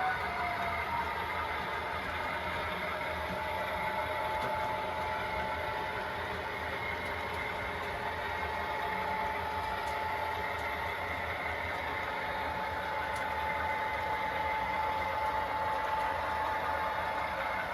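Sound decoder in an HO scale model diesel locomotive playing a diesel engine running steadily through the model's small speaker, with a steady tone held through it.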